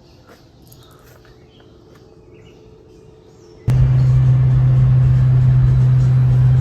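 Quiet outdoor background with a few faint bird chirps, then an abrupt jump, a little over halfway in, to a much louder steady low hum with a noisy wash over it.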